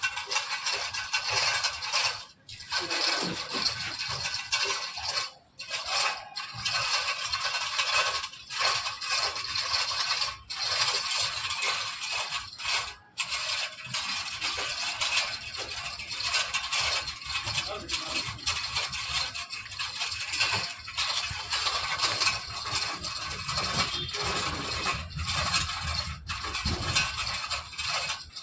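Continuous scraping and metallic clattering, with brief breaks a few times.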